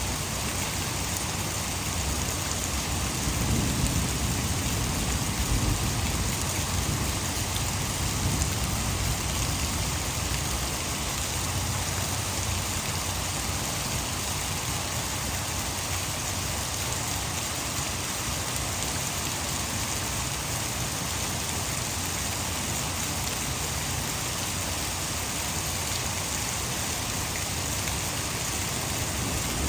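Heavy rain falling steadily, mixed with water falling from a nearby hydroelectric dam. A low rumble of thunder swells about 3 seconds in and fades by about 8 seconds.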